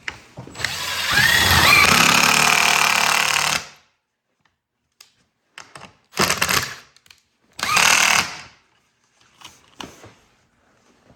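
Cordless drill driving hinge screws into wood: one long run of about three seconds, its whine rising in pitch, then two short bursts.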